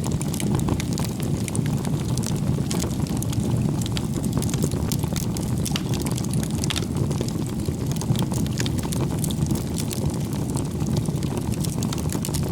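Wood campfire burning: a steady low rumble of flames with frequent sharp crackles and pops from the burning logs.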